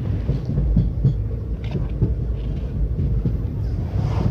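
Train running along the track: a steady low rumble with irregular clattering knocks from the wheels and rails.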